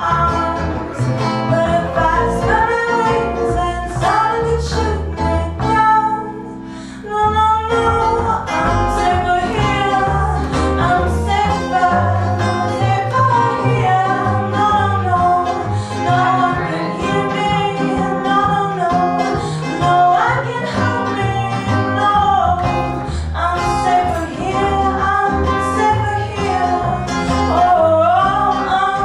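A live band playing a song, with singing over guitar accompaniment. The music thins out briefly about six seconds in, then comes back in full.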